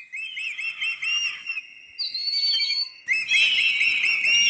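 A bird singing clear whistled notes: a quick run of about five rising-and-falling notes, then a single higher drawn-out whistle, then the run of notes again.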